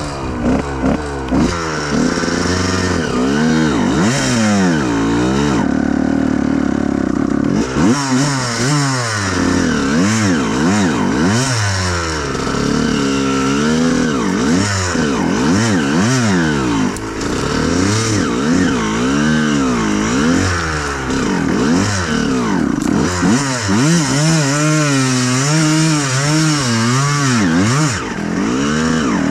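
Honda CR125R's two-stroke single-cylinder engine revving up and down over and over as the bike is ridden off-road, with a steadier stretch of even throttle about six to eight seconds in.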